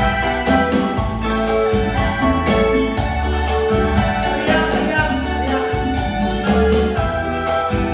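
Choir rehearsal music: an electronic keyboard with an organ-like sound playing sustained chords over a regular bass pattern, with choir voices singing along.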